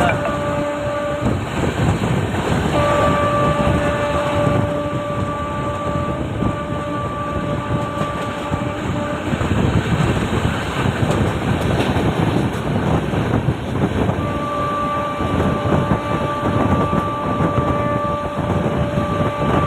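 Passenger train running steadily, a continuous rumble and rattle heard from on board. A train horn sounds in long steady blasts three times: briefly at the start, for about six seconds from around three seconds in, and again from about fourteen seconds in.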